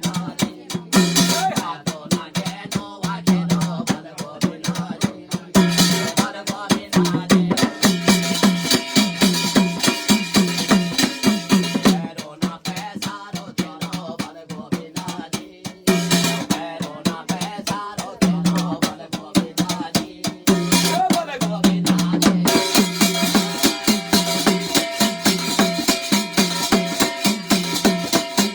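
Garhwali jagar devotional folk music without words: rapid, dense drum strokes over a steady held tone.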